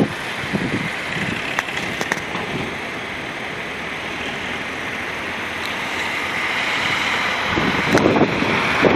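Strong wind rushing over the microphone, with gusts buffeting it in low thumps near the start and again near the end.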